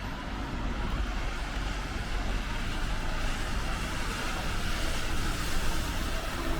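Wet-street traffic in the rain: vehicles passing with a steady low rumble and tyre hiss on the wet road, the hiss growing louder from about halfway through.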